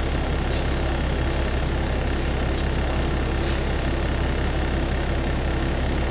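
Diesel railcar's engine idling with a steady low rumble, heard from inside the passenger cabin.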